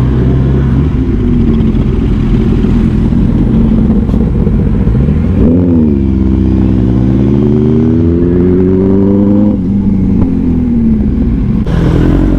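Superbike engines running under a rush of wind and road noise. About five seconds in, one engine revs up sharply and falls back, then pulls with a slowly rising pitch for about four seconds before the throttle closes.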